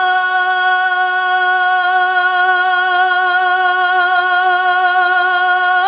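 A singing voice holding one long, steady note in an unaccompanied Urdu naat, sustained for about six seconds with only a slight waver in pitch.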